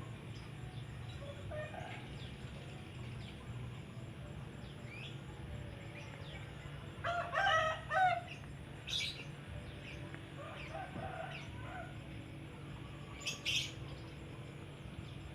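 A rooster crowing about seven seconds in, with a weaker call near eleven seconds, and short high bird chirps around them over a steady low hum.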